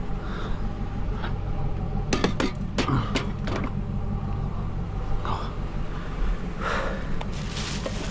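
Scrap metal parts being handled and dropped, giving several sharp metal clanks and clinks between about two and three and a half seconds in, over a steady low hum.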